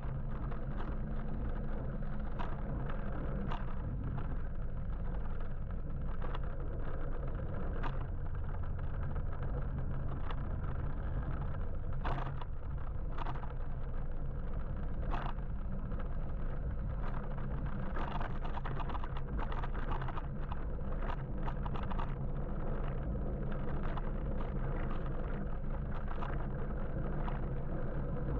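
Steady low road and traffic rumble heard while riding an electric motorbike through city streets, with scattered short clicks and knocks.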